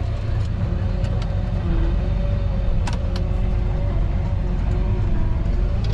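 John Deere 8230 tractor's six-cylinder diesel engine running steadily under load while pulling a disc harrow, with a sharp click about three seconds in.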